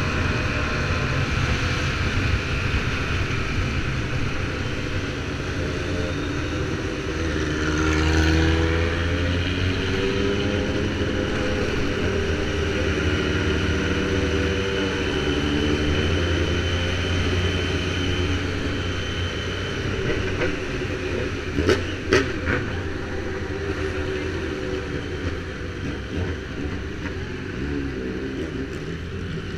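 BMW F800R's parallel-twin engine running under way with wind rush. Its pitch rises as it accelerates about eight seconds in, then it holds steady. A few sharp knocks come about three-quarters of the way through.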